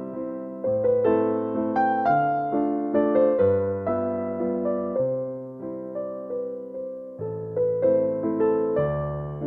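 Gentle piano music: a slow melody of single struck notes over low bass notes, each note fading after it sounds.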